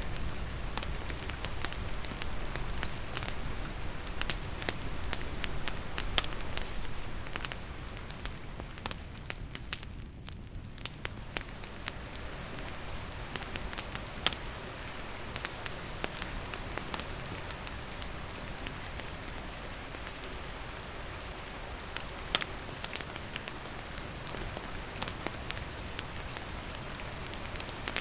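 Steady rain falling on a wooden cabin and the surrounding forest, with a wood campfire crackling in sharp irregular pops throughout. The rain eases briefly about ten seconds in.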